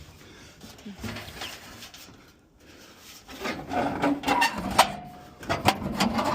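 Clicks, knocks and scraping from parts being handled while a furnace blower is being refitted, getting busier about halfway through, with a brief squeak.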